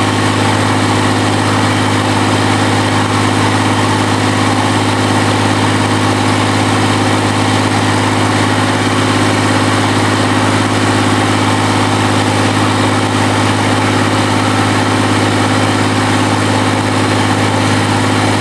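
QC385 three-cylinder diesel engine of a stationary diesel drive, running loudly and steadily at a constant speed.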